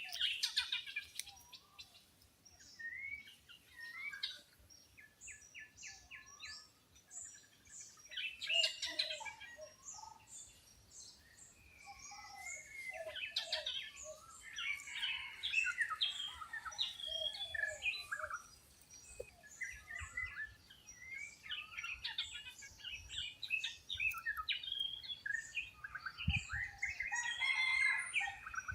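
A mixed chorus of wild birds, many short chirps, whistles and trills from several birds overlapping without a break, including a quick run of evenly repeated notes.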